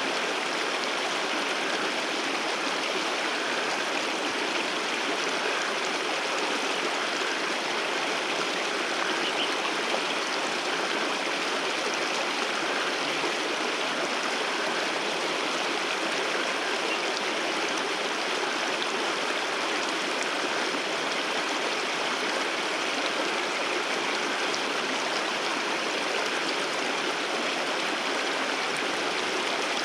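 Water rushing down a waterfall, a steady, even noise without a break.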